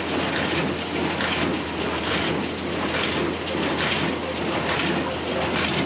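Farm vehicle on the move, a steady low engine hum under a loud rattling noise that swells and fades about once a second.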